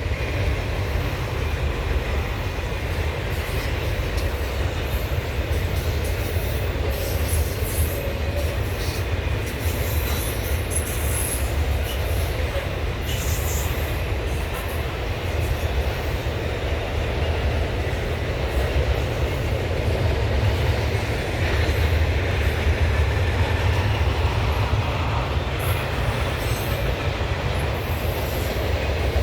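Norfolk Southern intermodal train cars rolling past at close range: a steady, continuous rumble of steel wheels on rail, with intermittent clicking and faint high wheel squeal over the top.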